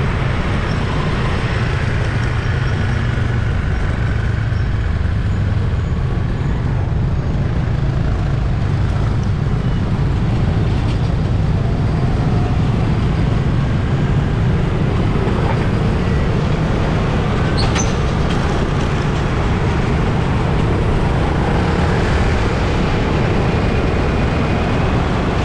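Steady city street traffic: a continuous rumble of engines and tyres from passing vehicles, with a brief high-pitched squeal about 18 seconds in.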